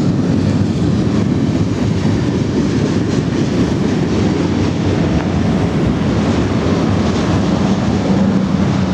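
Steady, loud rumble of passing vehicle traffic, with a faint engine tone rising out of it near the end.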